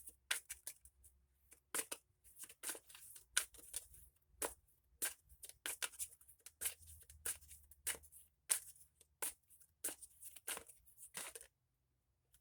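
A deck of tarot cards being shuffled by hand, a quick, irregular run of card snaps and flicks that stops about eleven and a half seconds in.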